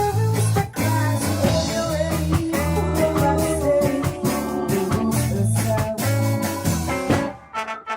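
Ska band playing a song in rehearsal: bass line, drums and guitar, with the music breaking off briefly near the end.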